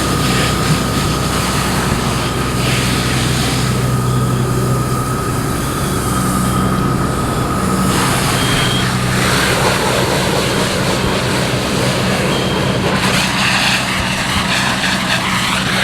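Large engine running steadily at a fire scene, most likely a fire engine, with a thin steady whine that stops about halfway through and a few short high beeps.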